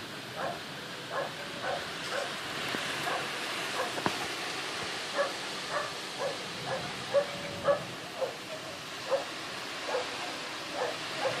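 A dog barking over and over in short yaps, one or two a second, the loudest about seven seconds in, over a steady background hiss.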